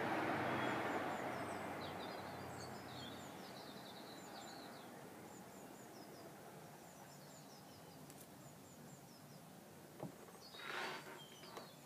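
Outdoor back-yard ambience: a broad rush of background noise fading away over the first few seconds, with small birds chirping high and quick. Near the end comes a click and a brief scuffling noise.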